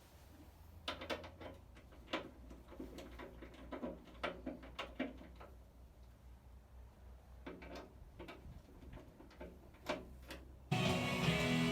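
Scattered light clicks and knocks of hand work on parts, over a low steady hum. Music with guitar starts suddenly near the end.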